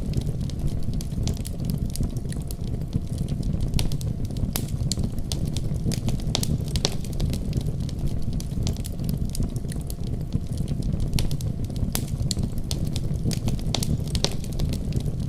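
Wood fire crackling in a fireplace, with irregular sharp pops and snaps over a steady low rumble of storm wind.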